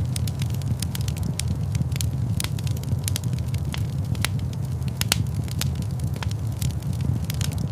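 Wood fire burning in a large stone fireplace: a steady low rumble of flame with irregular, sharp crackles and pops scattered throughout.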